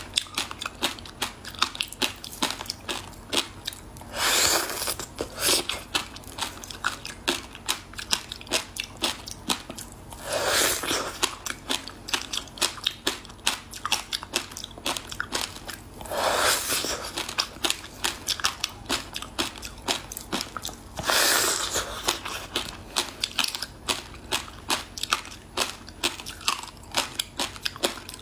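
Frozen passion fruit ice being bitten and crunched close to the microphone: rapid crunching chews throughout, with a louder, longer bite about every five or six seconds.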